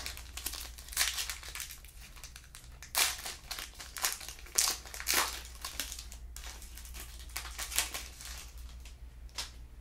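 Plastic trading-card pack wrapper crinkling as it is torn open and handled, in uneven spurts of crackling.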